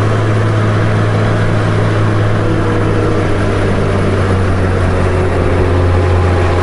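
Honda Goldwing GL1500's flat-six engine running at a steady cruise, a constant low hum, with wind rushing over the microphone.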